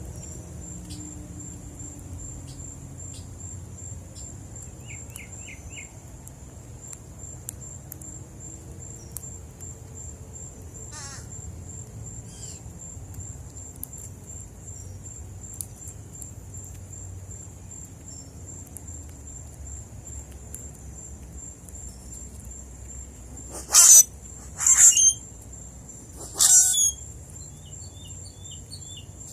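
A steady high insect trill runs throughout, with a few soft bird chirps. Near the end, three loud, harsh bird calls come in quick succession.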